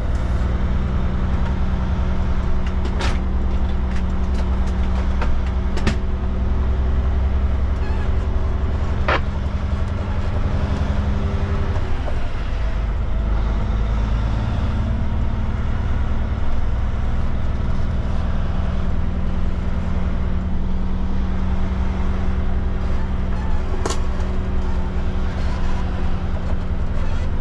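Kenworth K200 cabover's Cummins diesel engine running at low speed, its note changing about twelve seconds in, with a few short clicks.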